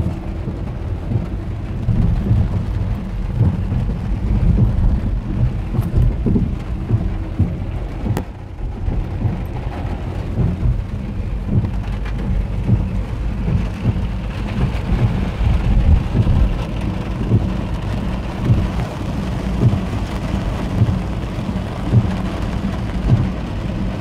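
Heavy storm rain drumming on a car's roof and windscreen, heard from inside the cabin as a dense, steady patter of many small hits.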